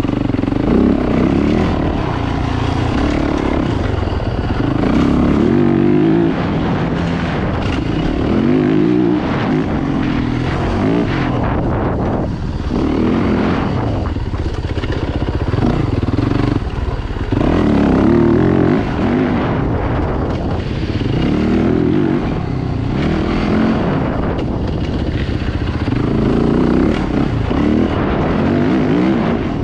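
Dirt bike engines running hard, revving up and easing off over and over as the bikes ride.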